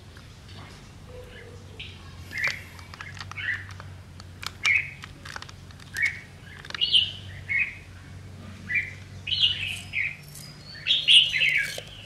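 Birds chirping: a run of short chirps, some falling in pitch, that come closer together and louder in the second half.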